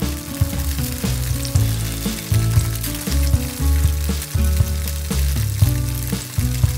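Pieces of tofu sizzling and crackling in shallow oil in a frying pan. Background music with low bass notes plays along with it.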